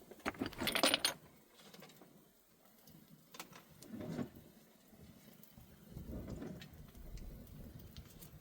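A brief metallic jingling and clinking about half a second in, followed by a softer knock and some rustling.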